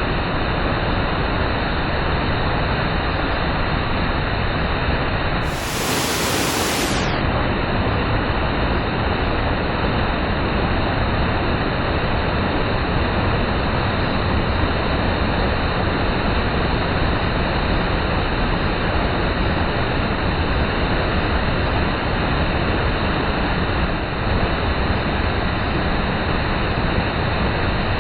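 Waterfall close by: falling water rushing in a steady, even noise.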